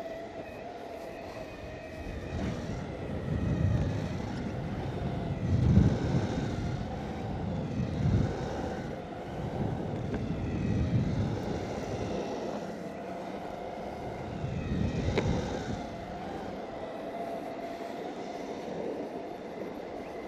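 Exway Flex Pro V3 electric skateboard riding: a steady motor whine that wavers slightly in pitch with speed, over wheels rolling on pavement. Low rumbling swells rise and fall several times.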